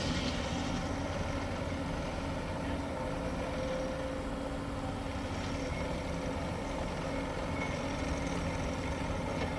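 Heavy road-construction machinery running steadily, a continuous engine drone with a faint held hum.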